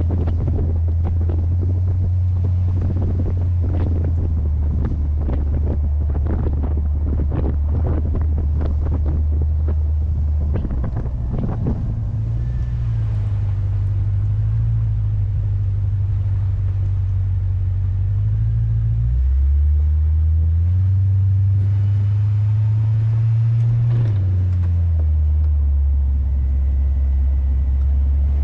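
C3 Corvette's 350 small-block Chevy V8 running under way, its low drone stepping up and down in pitch several times as the revs change. Wind buffets the microphone through the first half.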